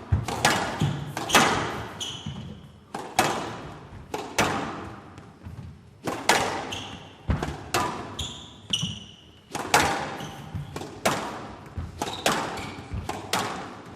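A squash ball being struck by rackets and smacking off the court walls in a rally, a sharp, echoing hit every half second to a second. Players' shoes squeak briefly on the court floor now and then.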